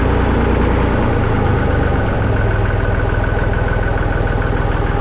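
Massey Ferguson 35X tractor's three-cylinder diesel engine running steadily with an even firing rhythm; the engine note shifts briefly about a second in.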